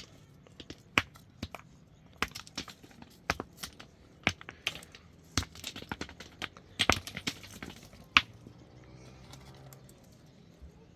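Irregular sharp knocks and clicks, some louder than others, coming every half second or so and stopping about eight seconds in.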